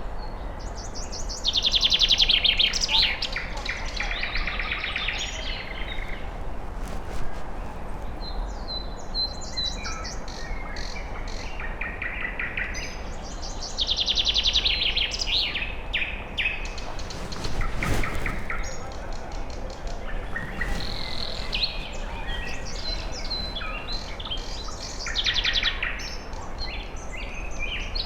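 Several songbirds singing in a forest, with fast trilled phrases repeated every few seconds and shorter chirps in between, over a steady low background hiss.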